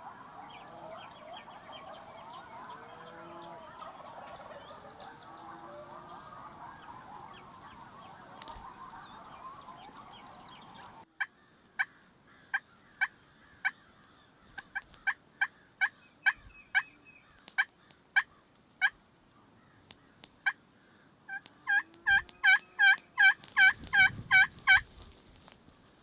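A dense chorus of birdsong for about the first eleven seconds, then a cut. After the cut, turkey clucks and yelps: single sharp calls about every half second, then near the end a quick run of about ten loud yelps.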